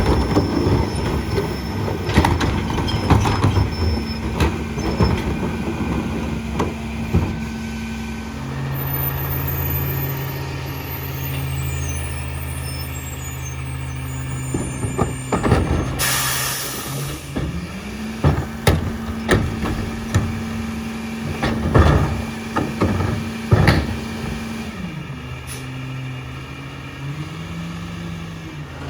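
Peterbilt 348 rear-load garbage truck with an EZ-Pack Goliath body at work: the engine runs steadily and steps up and down in speed several times, over repeated knocks and clanks of refuse and cans at the rear hopper. A sharp air-brake hiss comes about halfway through.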